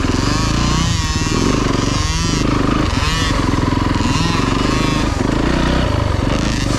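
Dirt bike engine running hard, its pitch rising and falling again and again with the throttle.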